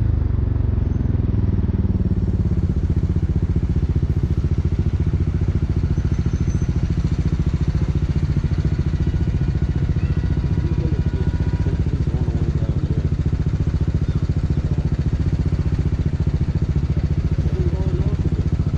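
2018 BMW G 310 R's single-cylinder engine running through an Akrapovic racing exhaust, a steady, rapid exhaust beat that settles slightly in the first couple of seconds and then holds even.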